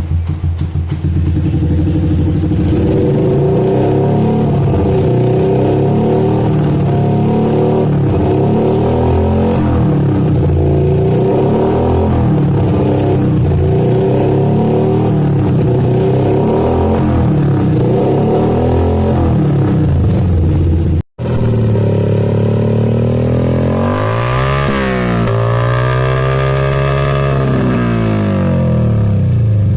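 Small single-cylinder Yamaha MX motorcycle engine revved through a loud KOU aftermarket racing exhaust. It is blipped over and over about every two seconds, then cuts out for an instant about two-thirds in, then gives one longer rev that rises and falls.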